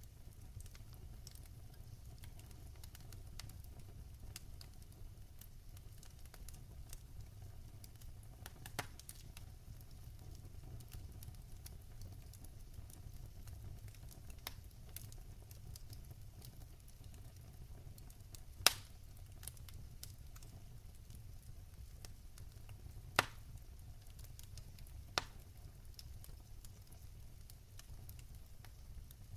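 Fireplace fire crackling with many small ticks over a low steady rumble, and a few sharp louder pops, the loudest a little past the middle.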